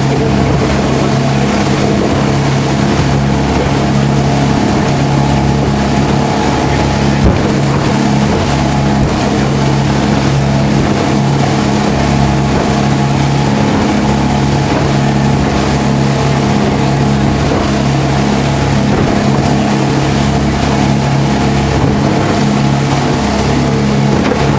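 Speedboat engines running steadily at cruising speed, a constant low hum under the loud rush of water and wind past the hull, with one sharp knock about seven seconds in.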